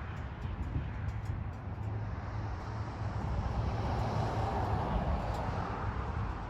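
An engine running steadily, a low drone under an even rushing noise.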